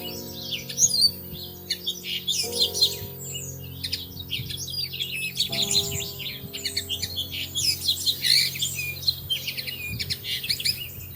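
Many small songbirds chirping and twittering in quick, high notes, over soft background music of held chords that shift every few seconds.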